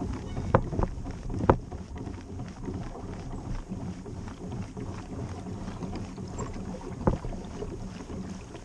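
Wind buffeting the microphone as a low rumble, with a few sharp knocks: three in the first second and a half and one about seven seconds in.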